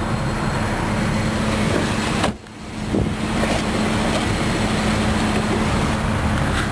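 2004 Jeep Grand Cherokee's engine idling with a steady hum. The sound drops out abruptly for a moment about two and a half seconds in, then returns.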